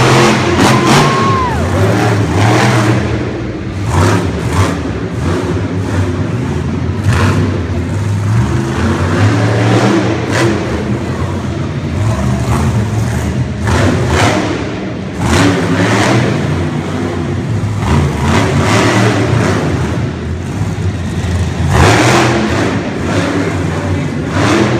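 Monster truck engine revving up and down over and over during a freestyle run, loud throughout.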